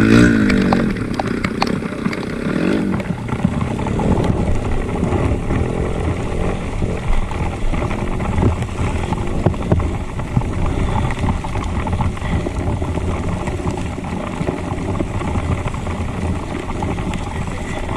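Trail motorcycle engine revving hard in the first second, rising and falling in pitch, then easing to a lower steady running with scattered knocks and clicks.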